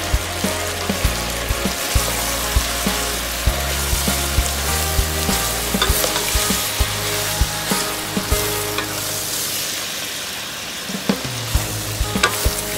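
Chopped roast pork and onions sizzling in soy sauce in a stainless-steel pot while a wooden spoon stirs them, with frequent sharp knocks of the spoon against the pot.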